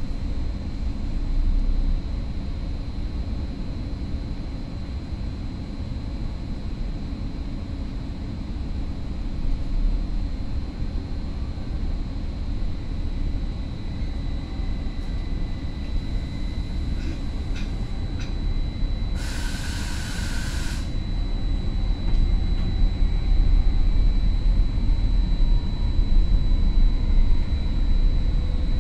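Interior of a Caltrain Stadler KISS electric multiple unit pulling out of a station, with a steady low rumble from the running gear and a faint thin high tone throughout. A brief hiss comes about two-thirds of the way through, then the rumble grows louder as the train gathers speed.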